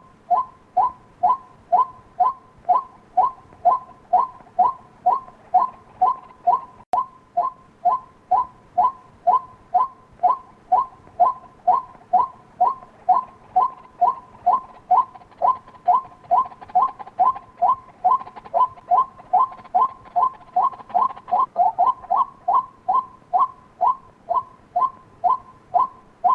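White-breasted waterhen calling: a steady, unbroken series of short repeated notes, about two a second.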